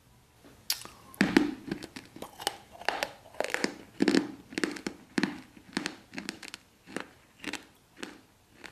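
Close-miked crunchy chewing, starting a little under a second in and going on at about two chews a second.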